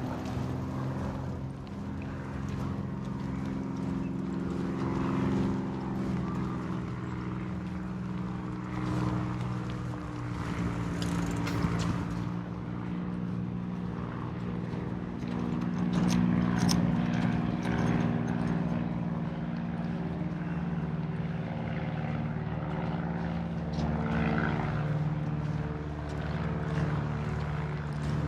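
A motor engine drones steadily as a low hum made of several held pitches that drift slowly, with a few light clicks over it.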